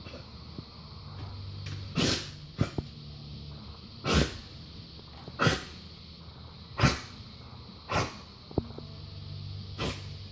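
Large dog coughing and hacking in six sharp coughs, one every second or two. The owner puts the cough down to fluid build-up from heart disease.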